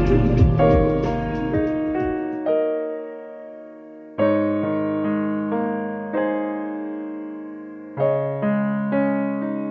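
Slow background piano music: soft chords struck about every two seconds, each left to ring and fade.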